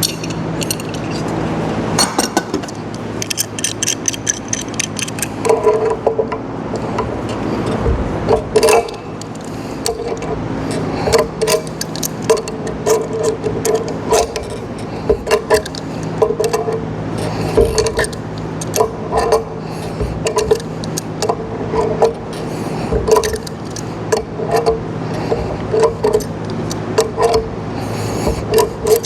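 Metal pump parts and tools being handled during reassembly: many sharp clicks and clinks, irregular and repeated, over a steady low hum.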